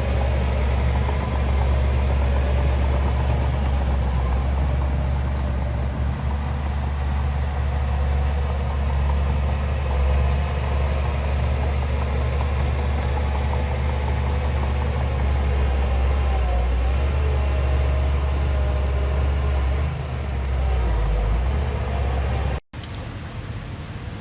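Heavy diesel engine of earthmoving machinery running steadily with a low rumble. Near the end it cuts off abruptly, leaving a quieter steady hiss.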